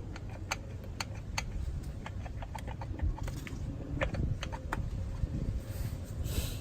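Light metal clicks and taps of hand tools and small engine parts being handled, irregular and scattered, over a steady low rumble.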